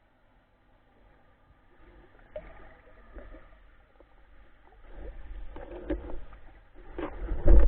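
Muffled water sloshing with scattered knocks, building up over the last few seconds.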